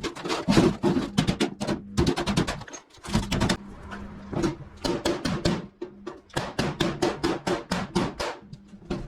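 Flathead screwdriver working the sheet-metal drive cleats on ductwork, bending them over: a rapid, irregular run of metallic taps, clanks and scrapes, with a faint steady hum underneath.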